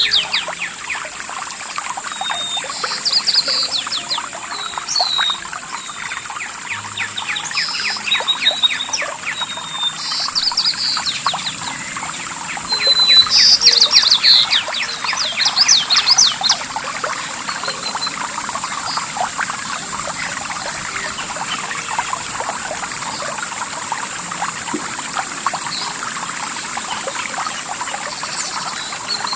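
Water trickling and splashing steadily, like a small stream or cascade, with songbirds singing in repeated short bursts during the first half that fade out later. A faint steady high whine sits above it all.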